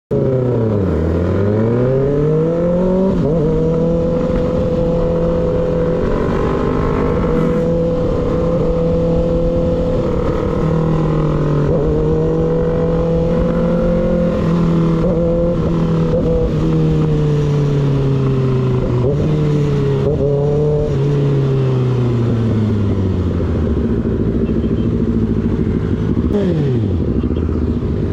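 Motorcycle engine and exhaust under way. The revs drop sharply at the start and climb back, then hold a steady cruising note for a long stretch. They ease off and pick up again, then fall away toward the end as the throttle closes.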